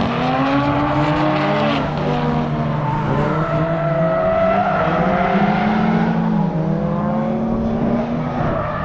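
Several drift cars' engines revving up and down together on track, their pitches rising and falling and overlapping, with tires squealing as they slide.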